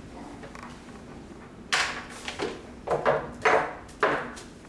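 A series of about five or six knocks and scrapes as things are handled and set down on a table, starting about a second and a half in.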